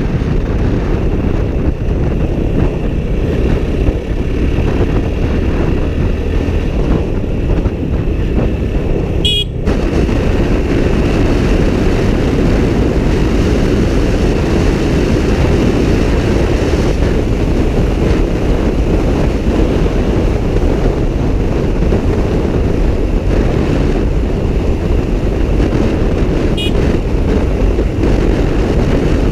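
Motorcycle riding at speed on a highway: a steady rush of wind buffeting and road noise on the onboard microphone. Two short horn toots sound, one about nine seconds in and one near the end.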